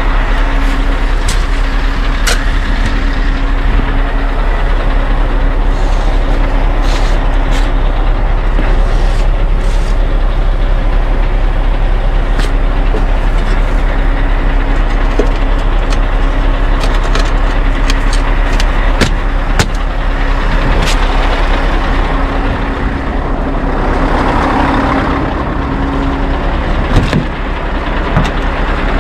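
Scania R580 truck's V8 engine running steadily, with scattered clicks and knocks over it.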